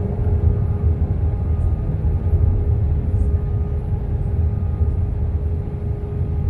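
Steady cabin noise inside an Airbus A320 in flight: a deep rumble of engines and airflow, with a steady hum.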